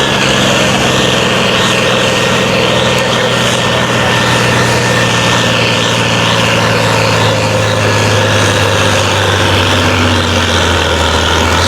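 Farm-stock diesel tractor engine running loud and steady at full load as it drags a weight-transfer sled down the pulling track. Its pitch sinks a little near the end as the engine lugs down under the growing load.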